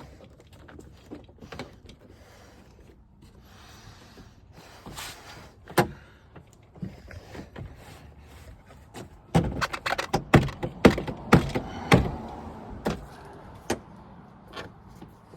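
Clicks, knocks and rattles of hands working on a GMC truck door and its latch parts, sparse at first and then a quick run of loud knocks and clatters about nine seconds in.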